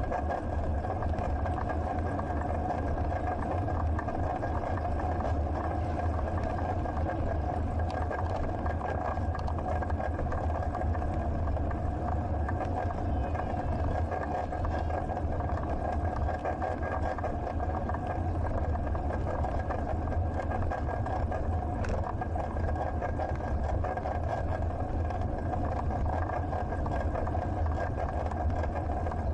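Steady wind and riding noise on a bicycle-mounted action camera's microphone, a constant deep rumble with a faint steady whine above it.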